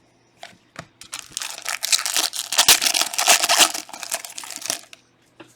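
Foil trading-card pack wrapper being torn open and crinkled by hand for about four seconds, after a few light clicks at the start.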